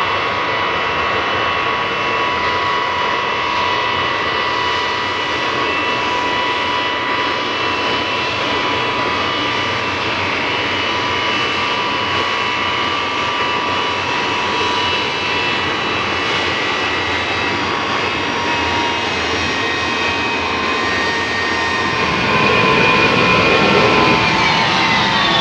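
Ilyushin Il-76's four Soloviev D-30KP turbofan engines running with a loud steady whine over a rushing roar. It grows louder near the end, and several whining tones slide down in pitch.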